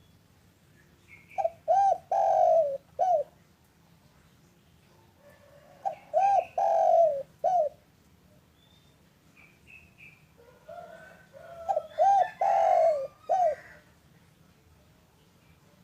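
Spotted dove (derkuku) cooing: three phrases a few seconds apart, each a few short coos around one longer, drawn-out coo. Faint high chirps of small birds come between the phrases.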